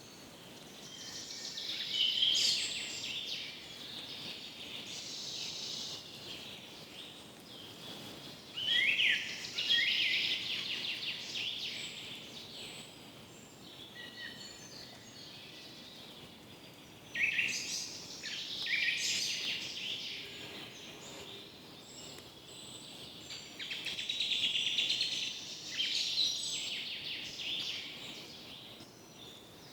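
Forest birds singing and chirping over a faint steady background hiss. Song comes in bunches every several seconds, with quieter gaps between.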